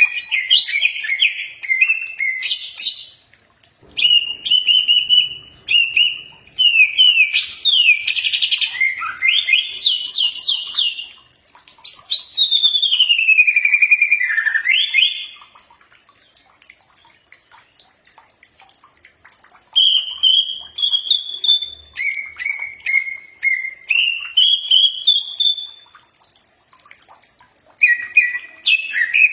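Cucak ijo (green leafbird) singing a loud, varied song of whistled warbles, falling glides and rapid chattering trills. The song comes in bursts, with short pauses about four seconds in and near the end, and a longer pause from about 16 to 20 seconds.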